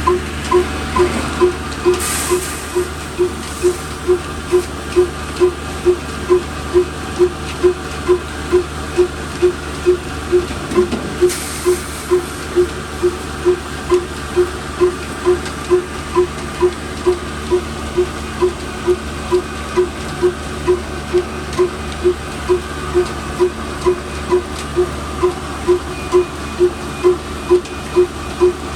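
Old black single-cylinder diesel engine running steadily, with an even exhaust beat of about two knocks a second over the low hum of the flour mill it drives. There are two brief hisses, the first about two seconds in.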